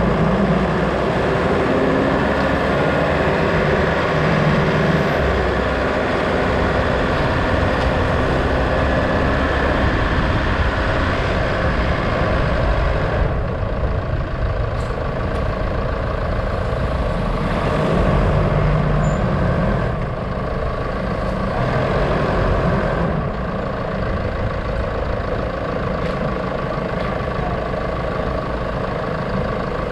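Steady engine and road noise of a moving vehicle, loud and continuous, with the higher hiss falling away about 13 seconds in.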